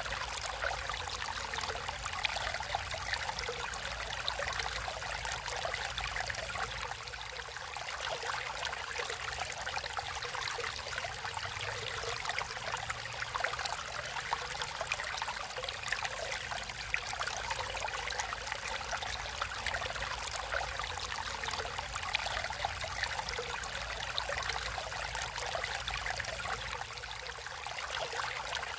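Water flowing and splashing in a natural stream, a steady trickling babble with many small splashes.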